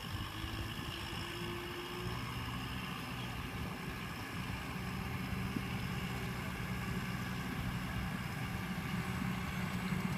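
Kubota M6040SU tractor's diesel engine running steadily while it tows a loaded trailer across the field, heard from a distance.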